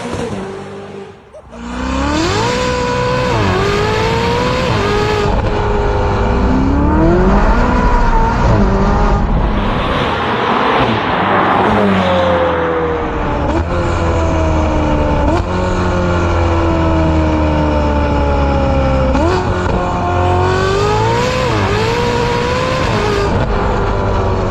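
Ferrari 488 Spider's twin-turbo V8, breathing through a catless downpipe and valved X-pipe muffler, driven hard: the engine note climbs in pitch and drops sharply at each gear change, again and again. About ten seconds in, a rush of noise swells over the engine. After that the pitch falls away slowly in long stretches before climbing again near the end.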